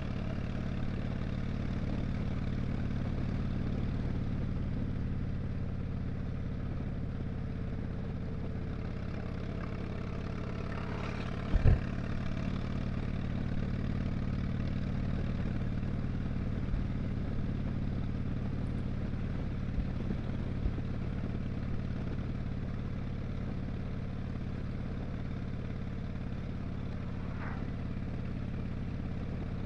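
2007 Harley-Davidson Dyna Street Bob's Twin Cam 96 V-twin running steadily under way, holding an even pitch. A single sharp thump sounds a little before the middle.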